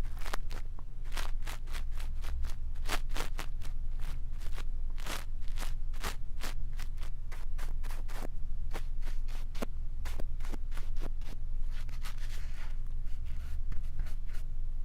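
Close-miked ASMR ear-cleaning sounds: a brush scratching and crackling against a microphone in quick, irregular strokes, over a low steady rumble.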